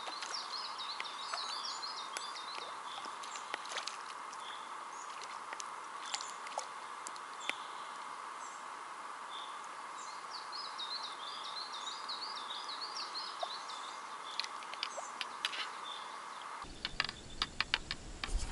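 A small songbird sings a fast, warbling phrase at the start and again midway through, over a steady outdoor hiss with scattered small splashes. Near the end a quick run of sharp clicks follows.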